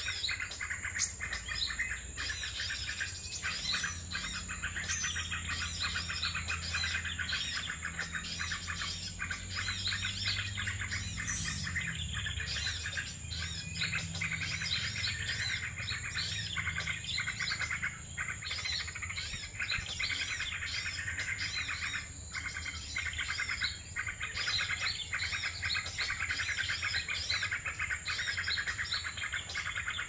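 Dense, continuous chirping and twittering of many small birds.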